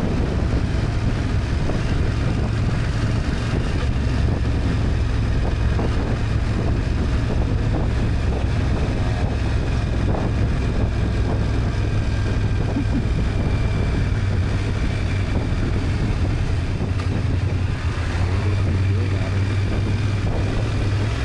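BMW F800GS parallel-twin engine running steadily while riding, with wind noise on the microphone.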